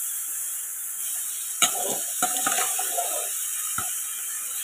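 Boiled black chickpeas sizzling steadily in hot oil with an onion-and-spice masala in a pan. There are a few clicks and scrapes of a steel spatula against the pan.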